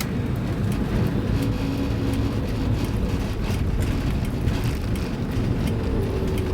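1982 Toyota Land Cruiser HJ60's 2H diesel engine running steadily, with a scatter of light ticks and rattles over it.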